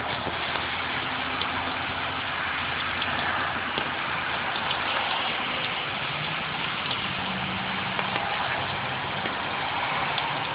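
Steady rain falling, with scattered sharp drop ticks, over the low hum of an idling engine.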